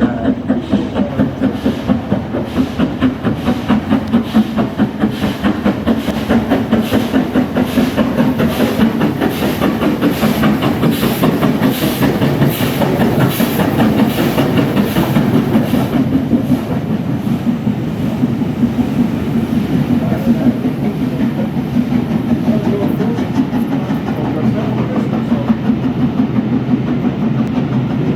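Railway train running, with a fast, even clatter of repeated beats that goes on without a break.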